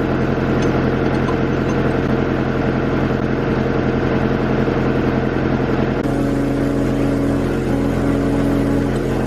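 Skid steer engine running steadily. About six seconds in, a higher steady tone joins in, broken by short gaps.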